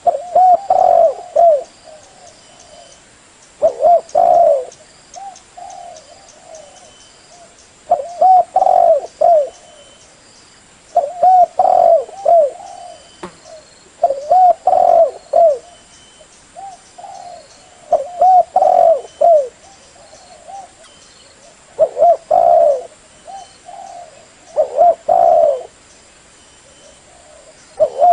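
Spotted dove (tekukur) cooing: a phrase of several short coos roughly every three to four seconds, with softer coos in between.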